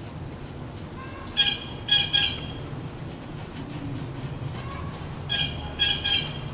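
A bird calling in two bursts of three short, clipped calls, about a second and a half in and again about five seconds in.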